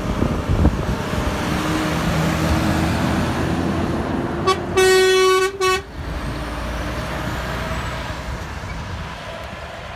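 A truck going past with engine and road noise, and its air horn sounded about halfway through: a short toot, a held blast of just under a second, then another short toot.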